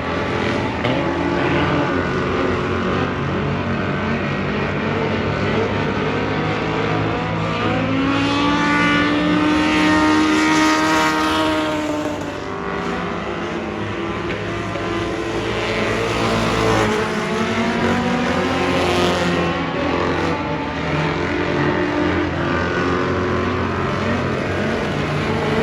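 Race car engines running hard during a race, their pitch rising and falling with the throttle. It is loudest about ten seconds in, then drops off suddenly a little later.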